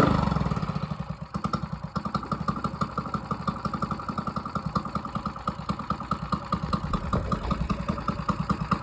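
Small mini bike engine just started, coming down from a rev about a second in and settling into a steady idle with evenly spaced firing pulses.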